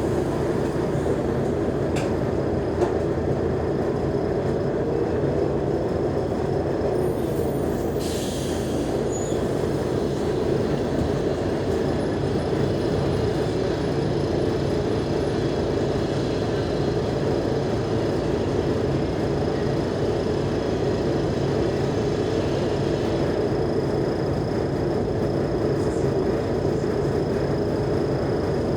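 Mercedes-Benz O345G articulated bus's diesel engine and drivetrain running steadily under way, with a faint high whine throughout and a short hiss of air about eight seconds in.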